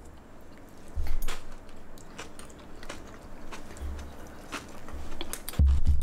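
A person biting into and chewing a piece of brown-rice gimbap filled with aged kimchi and squid: crisp little clicks of chewing throughout, with a low thump about a second in and another near the end.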